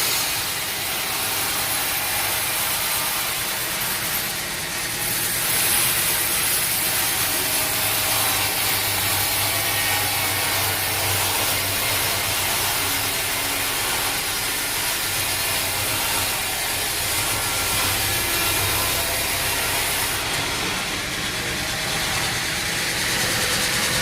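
Sawmill machinery running steadily: a saw cutting through an oak log over the hum of its engine.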